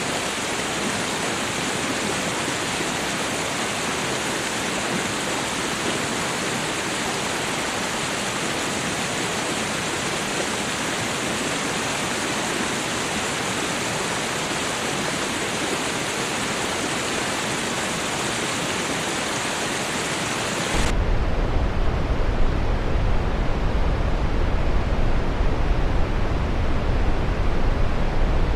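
Steady hissing rush of running water, like a stream or small waterfall. About 21 s in it switches abruptly to a louder, deeper rumbling rush with the high hiss gone.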